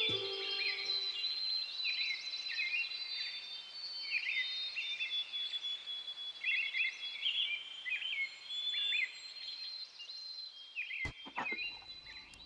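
Birdsong: several small birds chirping and calling in quick, swooping phrases, over the tail of soft music that fades out in the first second or two. A sharp click about eleven seconds in.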